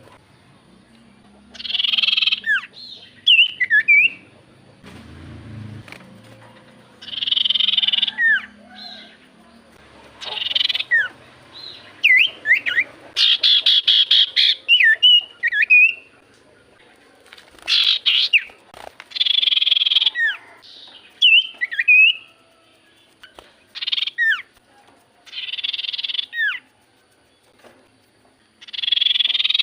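Common iora (cipoh) calling: about nine harsh, rasping bursts of roughly a second each, each followed by a few short whistled notes that slide up or down.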